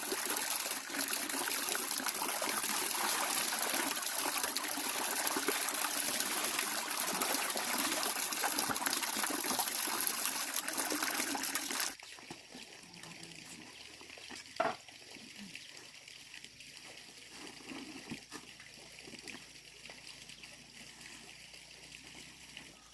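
Running water trickling steadily, which cuts off abruptly about halfway through, leaving a quiet background with a few faint knocks.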